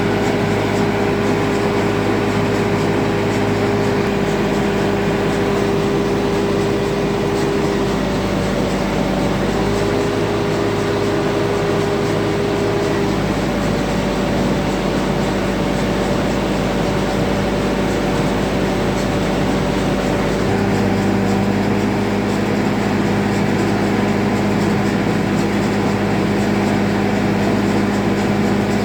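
Tractor engine running steadily while powering a maize harvester. Its note shifts slightly several times, about a third of the way in and again past two-thirds.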